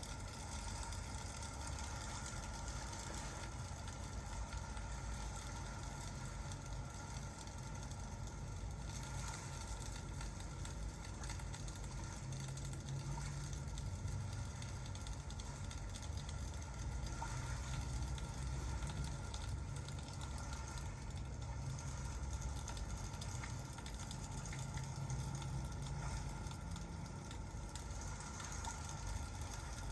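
Steady rain and crackling-fireplace ambience with a continuous low rumble and faint scattered crackles.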